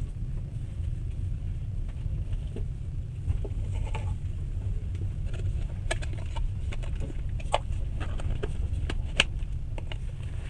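Steady low rumble of a moving passenger train, heard from inside the carriage, with scattered sharp clicks and ticks from about a third of the way in, the loudest near the end.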